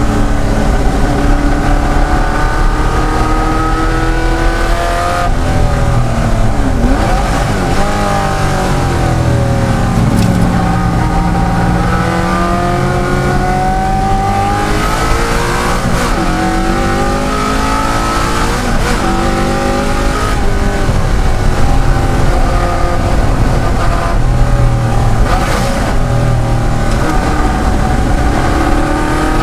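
De Tomaso Pantera's Ford V8 racing engine under hard use, its pitch repeatedly climbing and then dropping sharply through gear changes and braking, several times over.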